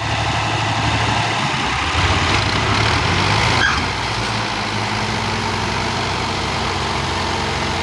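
Fiat 480 tractor's diesel engine running steadily, with a slight drop in level about four seconds in.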